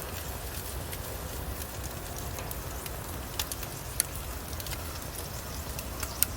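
Wood fire in a fire stand crackling, with a steady patter of small ticks and a few sharp pops.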